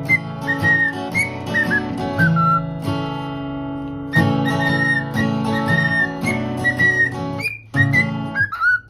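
A parrot whistling a tune over acoustic guitar music, in high held notes with short bending hooks and glides.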